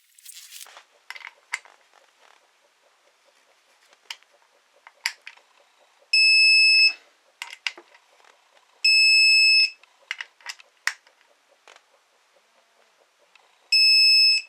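Three loud electronic beeps, each a steady high tone lasting just under a second, with short metallic clicks and clinks between them.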